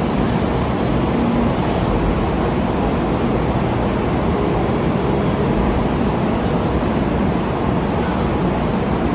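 Taiwan High Speed Rail train running into the station: a steady rushing rumble, heaviest in the low end.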